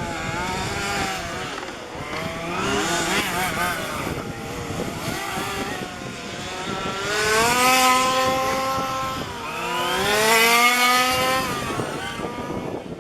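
Gasoline 1:5 scale RC cars' small two-stroke engines racing on a track, the pitch climbing as they accelerate. Two loud passes stand out, one about halfway through and another a few seconds later.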